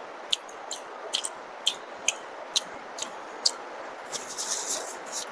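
Close-up chewing of soft fried luchi with potato-paneer curry: wet mouth and lip-smacking clicks about twice a second. About four seconds in there is a brief rustle of a paper napkin wiped across the mouth, all over a steady hiss of heavy rain.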